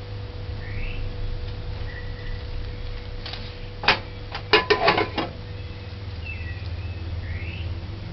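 A metal cake pan knocked and handled while the baked cake is loosened from it: a quick cluster of about seven sharp knocks about halfway through, over a steady low hum.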